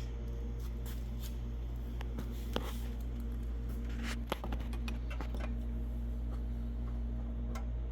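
A few light clicks and knocks of a bent steel flat-stock bracket being handled and test-fitted, over a steady low hum.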